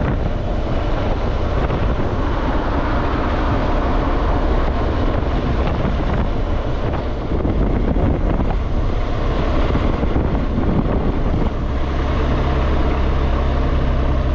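BMW R1200GS Adventure's boxer-twin engine running on the move, with wind noise over the microphone. The engine note settles into a steadier hum about three quarters of the way through.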